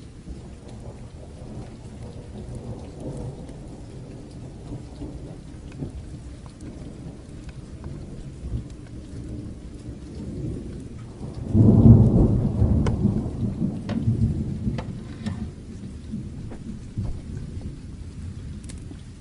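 Steady rain with scattered small crackles of a fire, and a roll of thunder that breaks in suddenly about two-thirds of the way through as a deep rumble, then rolls away over several seconds.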